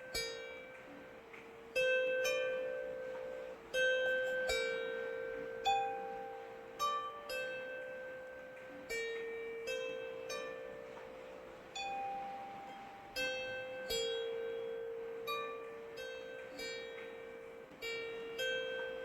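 Slow music of plucked strings: single notes struck about once or twice a second and left to ring out, over a faint steady hiss of rain.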